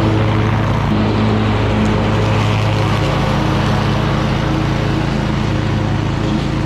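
Toro Titan Max zero-turn lawn mower running steadily while mowing, the engine at a constant speed.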